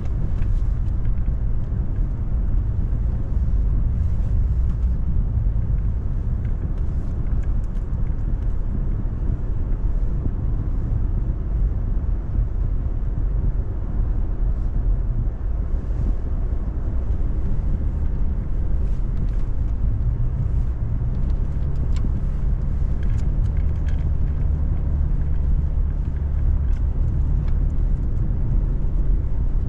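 2018 Toyota Tacoma driving slowly over an unplowed snow-covered road: a steady low engine and drivetrain drone, with scattered faint ticks and knocks.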